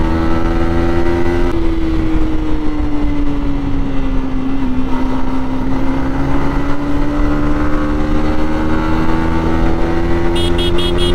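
Yamaha MT-15's 155 cc liquid-cooled single-cylinder engine pulling at high revs under way. About a second and a half in, its pitch steps down at an upshift, sags for a few seconds, then climbs steadily again as the bike accelerates through the gear.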